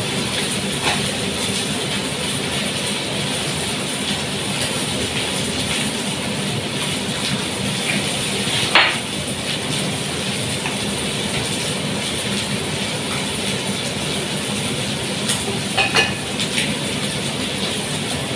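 Shredded chicken sizzling steadily in a frying pan on a gas stove, with a sharp pop about nine seconds in and a few more near the end.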